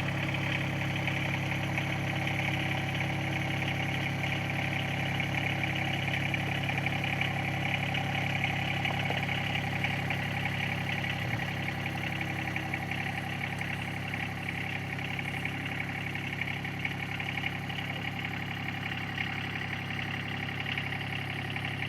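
Tractor engine running at a steady speed while towing a camper, its sound growing slightly quieter over the second half.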